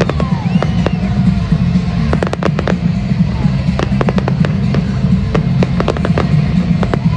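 Fireworks display: irregular sharp bangs and crackles of aerial shells bursting, coming much thicker and faster about two seconds in, over a steady low rumble.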